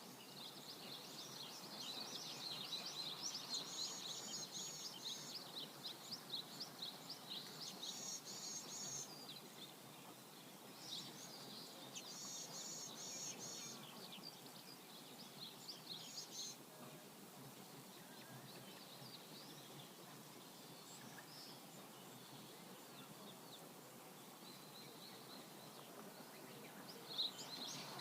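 Steady rush of a flowing river with songbirds chirping over it in quick, busy phrases; the birdsong thins out past the middle and picks up again near the end.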